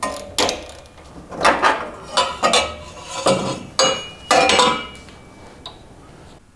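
Metal parts and tools clanking while work goes on at a VW Beetle's air-cooled engine: about eight irregular metallic knocks and clinks, each with a short ringing tail, fading out near the end.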